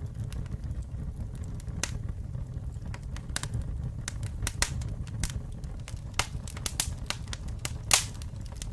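Campfire burning: a steady low rumble of flames with irregular sharp crackles and pops of burning wood, the loudest pop shortly before the end.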